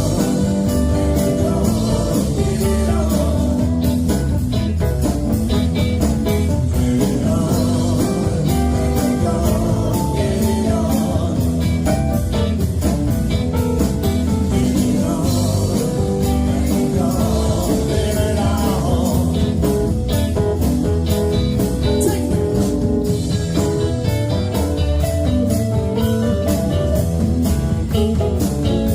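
Live band playing a blues-rock number: guitar over bass and a steady drum beat.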